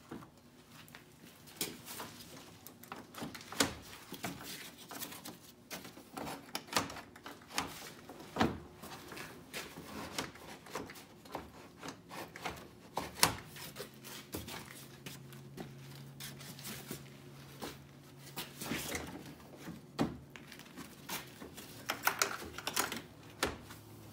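Plastic grille knocking, clicking and rubbing against the truck's front end as it is worked into place, in irregular sharp taps. A steady low hum comes in about halfway through.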